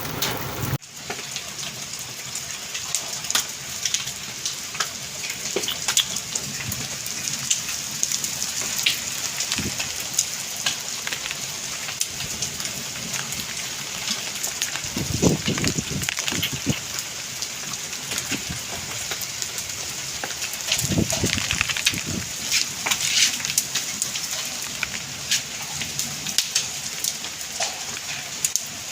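Heavy rain and hail falling, a steady hiss dense with sharp ticks of stones and drops striking hard surfaces. Two short low rumbles stand out, one about halfway through and one about two thirds of the way in.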